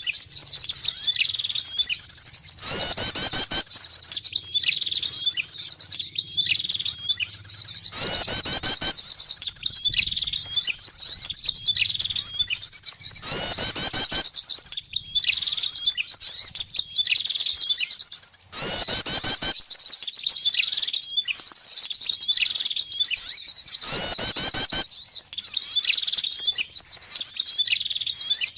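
Bird-lure recording of small songbirds, prinias among them, chirping in a dense, rapid, high-pitched stream without pause. A harsher, fuller burst of call comes in about every five and a half seconds.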